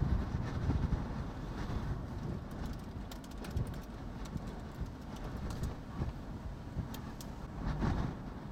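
Wind buffeting the microphone: a low, gusting rumble, with a few sharp ticks around the middle and again near the end.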